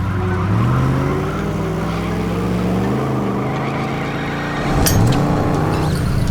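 Cartoon truck engine sound effect revving, its pitch rising, settling and rising again, with a short sharp clank about five seconds in.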